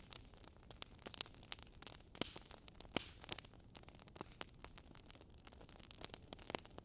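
Wood fire in a fireplace crackling, with frequent sharp, irregular pops over a faint low hiss; the loudest pop comes about three seconds in.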